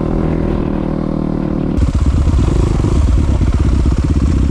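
Dirt bike engine running steadily, then about two seconds in it turns suddenly louder, with a lower, rougher rapid pulsing.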